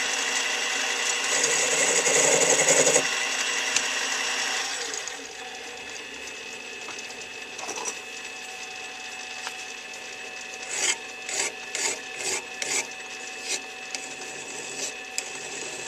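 Small metal lathe running while facing off the end of a metal workpiece: a steady motor whine with a harsher cutting sound between about one and a half and three seconds in. The machine quiets about five seconds in. After that come light clicks and taps of tools being handled.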